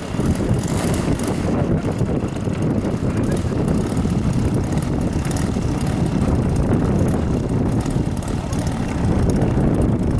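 Wind buffeting the microphone: a steady low rumble with no clear engine tone.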